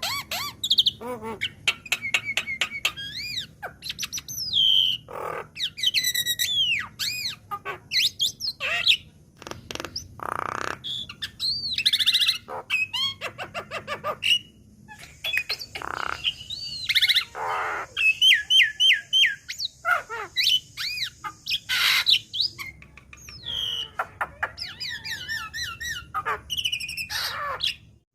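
Young Javan myna (jalak kebo) singing a rapid, continuous medley of varied whistles, sweeping rising and falling notes, clicks and harsh rasping squawks.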